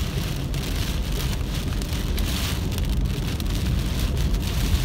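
Heavy rain hitting a car's roof and windshield, heard from inside the moving car, over a steady low noise of tyres on the flooded road.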